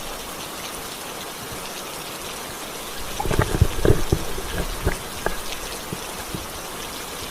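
Steady rain falling, with a short run of soft thumps and knocks about three seconds in.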